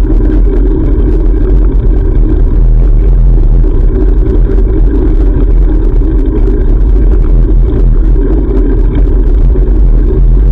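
Steady loud rumble of wind buffeting a GoPro's microphone while cycling, mixed with road noise.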